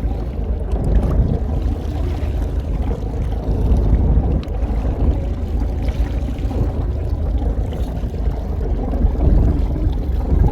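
Steady low rumble aboard a small fishing boat at sea, without distinct events.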